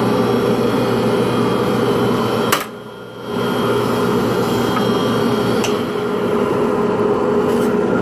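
Power tool motor running steadily in a workshop, with a sharp click about two and a half seconds in and the sound briefly dropping away before it picks up again.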